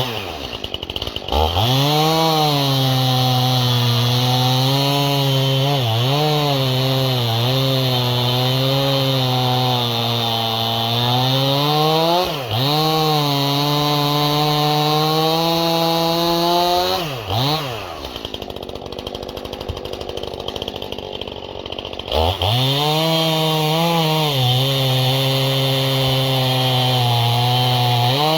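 Stihl two-stroke chainsaw cutting through a log with a freshly sharpened chain, held at high revs with brief dips in pitch as it loads up in the cut. About seventeen seconds in the throttle is let off and it drops to idle, then it revs back up and cuts again about five seconds later.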